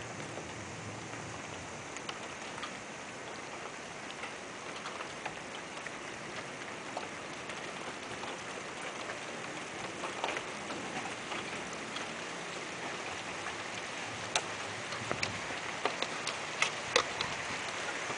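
Steady rain from a summer thunderstorm, with single drops ticking sharply on a nearby surface, more often toward the end.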